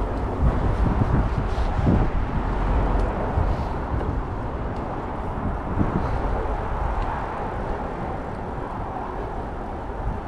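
Steady wind rush and rolling noise from a bicycle ride, heavy in the lows and fluctuating, with a few faint ticks.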